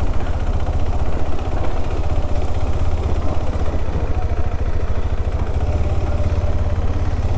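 KTM 390 Adventure's single-cylinder engine running steadily, a low, even drone.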